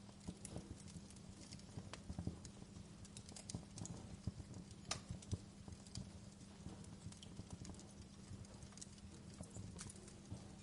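Wood fire crackling in a fireplace: irregular sharp pops and clicks, a few louder than the rest, over a low steady hum.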